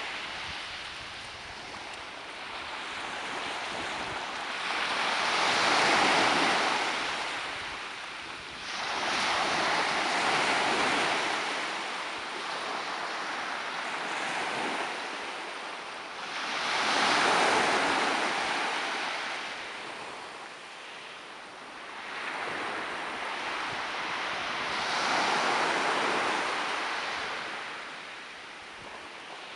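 Ocean waves breaking on a shore, each one swelling into a hiss of surf and draining away, about every five to eight seconds.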